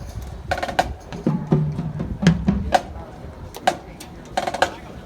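Marching band drumline playing: sharp snare and rim strikes over low bass drum hits, in an uneven rhythm of a few strikes a second.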